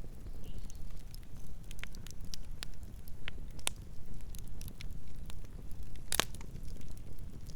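Campfire burning: a steady low rumble of flames with scattered sharp crackles and pops of burning wood, one louder pop about six seconds in.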